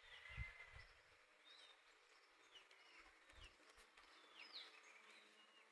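Faint outdoor ambience with a handful of short, faint bird chirps scattered through it, and a few low thuds near the start and about three seconds in.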